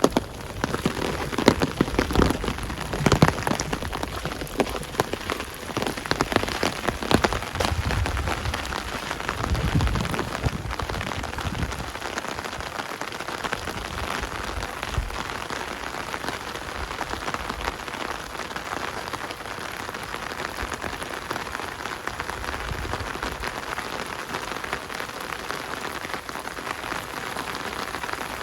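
Rain falling, with drops pattering on surfaces. About the first dozen seconds also hold frequent sharper, louder drop taps and some low thuds, after which the rain settles into a steady hiss.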